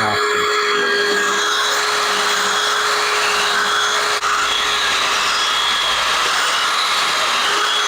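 Small electric finger belt sander running steadily against carved wood, with a steady whine over the rasp of sanding and a momentary dip about halfway through.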